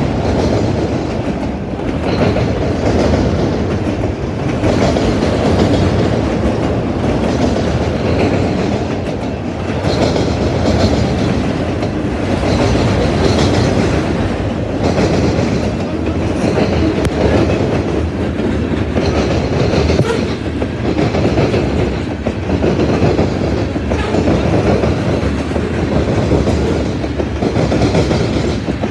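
A mixed freight train's cars, autoracks and then open hoppers, rolling past close by: a steady rolling noise of steel wheels on rail with repeated clicks over the rail joints.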